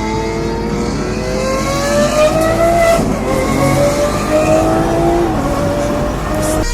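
Lamborghini engine accelerating hard, its pitch climbing, dropping back about three seconds in and again a little after five seconds as it shifts up, then running on at a steadier pitch.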